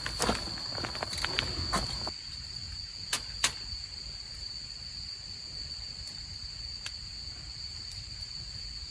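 Insects trilling steadily in one high, unbroken tone. Knocks and rustles of things being handled come in the first two seconds, and two sharp clicks follow about three seconds in.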